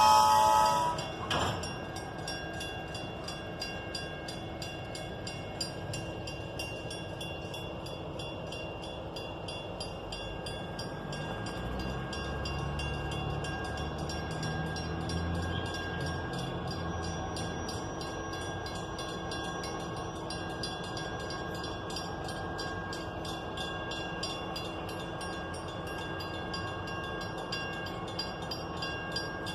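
Rail cars being pulled with their brakes locked up, steel wheels squealing on the rail. A loud squeal of several high tones cuts off about a second in. After that a quieter, steady squeal of several high tones carries on over the rolling rumble and fine rapid clicking of the cars, with a deeper rumble swelling around the middle.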